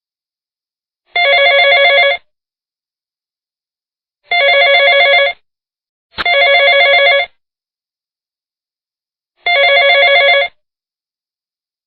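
Telephone ringing: a warbling electronic ring about a second long, heard four times with silence between, mostly about three seconds apart. The third ring starts with a sharp click and comes sooner than the rest.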